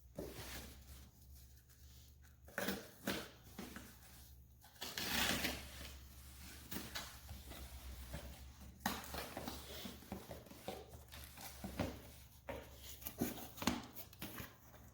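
A cardboard box being opened and its packaging handled: irregular rustling, scraping and small knocks, with a longer rustle about five seconds in.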